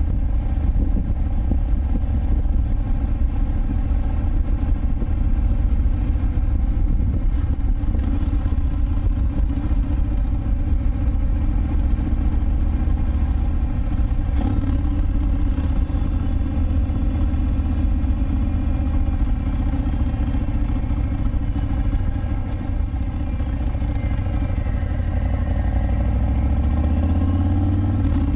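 Harley-Davidson Breakout FXBRS V-twin with a Vance & Hines Big Radius exhaust, heard from the bike while riding at a steady cruise. The revs ease off a little over twenty seconds in, then climb again near the end as the bike accelerates.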